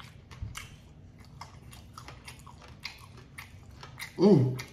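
A person biting and chewing crispy fried chicken close to the microphone: a run of short crunching clicks. Near the end comes one loud hummed "mmm".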